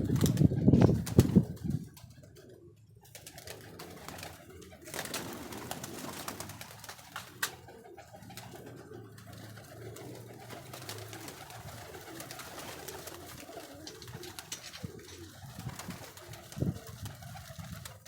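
Domestic pigeons cooing, loudest in the first second or so, then softer, with many light clicks and taps scattered throughout.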